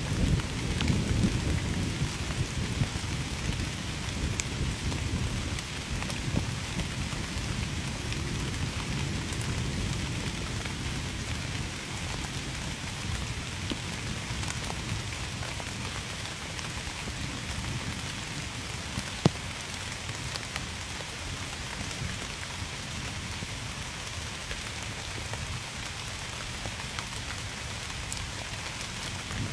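Steady heavy rain falling on a surface, with a low rumble of thunder in the first seconds that dies away. There is one sharp tap about two-thirds of the way through.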